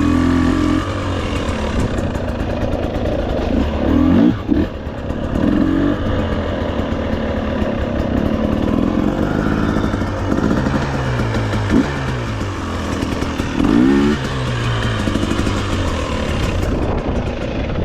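Off-road motorcycle engine running under changing throttle, rising in pitch in short revs several times and falling back between them, with knocks and rattles throughout.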